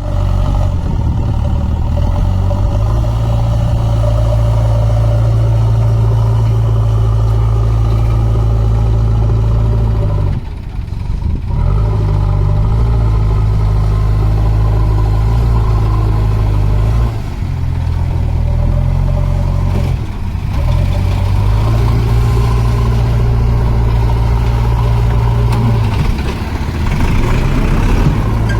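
Heavy diesel engine running steadily at a constant speed, loud and low, with its level dropping briefly a few times.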